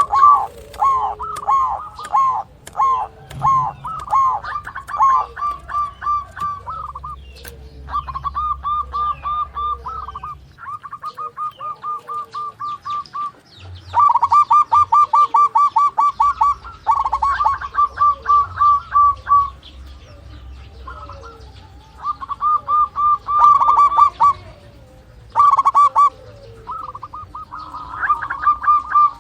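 Zebra dove (perkutut) singing: runs of quick staccato cooing notes, several a second, in phrases of a few seconds each with short pauses between.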